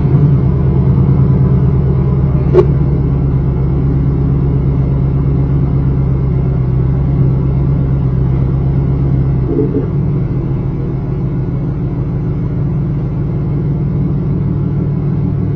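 1995 Chevy Camaro Z28's V8 idling through a Flowmaster exhaust with a steady, deep rumble just after starting. There is a brief click about two and a half seconds in, and about ten seconds in the idle note changes and drops a little in level.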